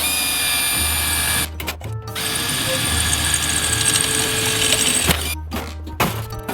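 Power tool working stainless steel: two runs of loud, whining noise, a short one and then a longer one of about three seconds, over background music with a steady bass beat.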